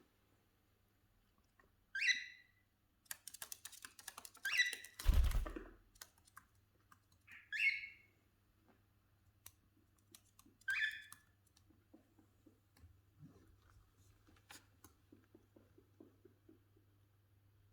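Cockatiels giving four short chirps a few seconds apart, with clusters of quick clicks and taps from beaks pecking, and one dull thump about five seconds in.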